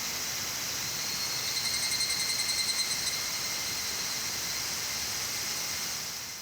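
Insects chirring steadily, with a fast pulsing trill standing out for a second or two about a second and a half in. The sound fades out near the end.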